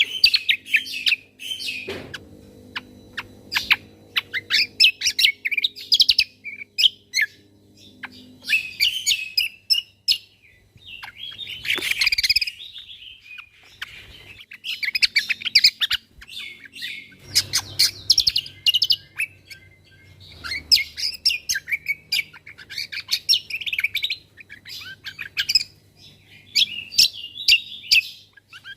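Cucak kombo (kecial kombo) songbird singing in rapid, repeated bursts of high chirps and trills broken by short pauses: 'tembakan' fill phrases used as training song for other cage birds.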